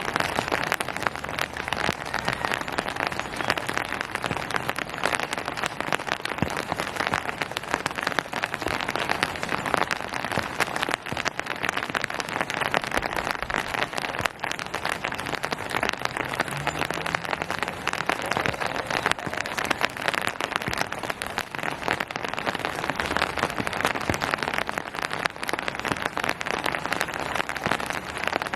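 Steady rain falling, a dense even hiss of many drops hitting surfaces with fine irregular pattering throughout.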